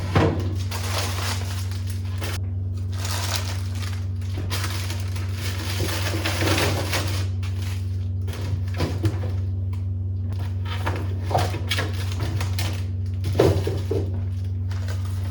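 Plastic produce packaging crinkling and rustling in several stretches as vegetables are handled, over a steady low hum.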